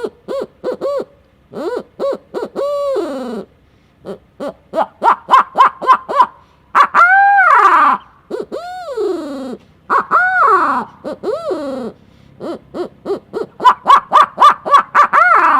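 Mill Creek Valley Game Calls Hootie Hoot owl call blown by mouth, imitating an owl's hooting. It gives short hoots, quick runs of rapid hoots, and several long hoots that fall in pitch at the end.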